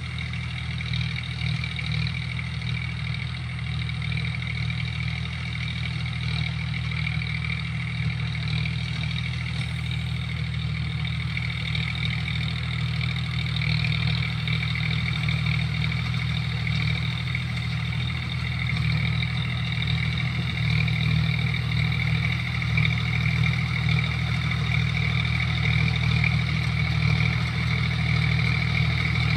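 John Deere tractor's diesel engine running steadily while working a rotavator, with a steady high whine above the low engine note. It grows gradually a little louder over the stretch.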